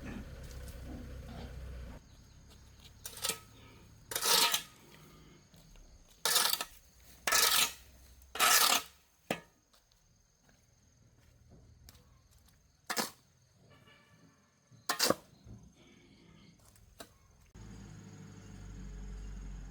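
About eight short, sharp scraping strokes, irregularly spaced, each lasting half a second or less, with a low steady hum before and after them.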